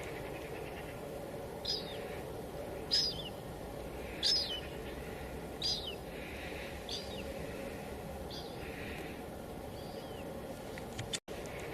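Steady hiss of light drizzle falling, with a bird calling over it again and again: short high notes that slide downward, about one every second and a half, fading out in the last few seconds. The sound cuts out for an instant near the end.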